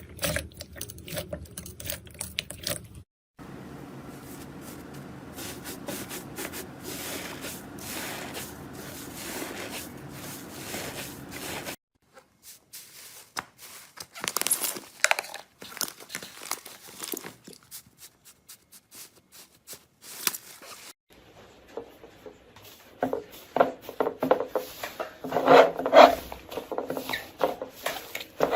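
Slime being squished and pulled by hand: crackling, crunching and tearing sounds. The texture changes abruptly a few times, ending in a louder run of dense crackles and pops.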